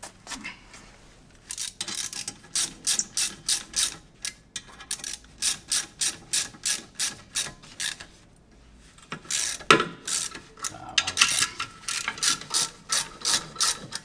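Ratchet wrench clicking in short, even strokes, about two to three clicks a second, as bolts are turned to press a stuck rear brake disc off the hub, with a single louder knock about ten seconds in.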